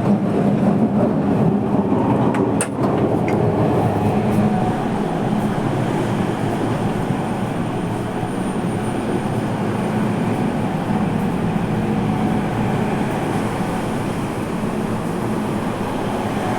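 Running noise inside a Toei Mita Line subway car in motion: a steady rumble of wheels and motors, with a sharp click about three seconds in.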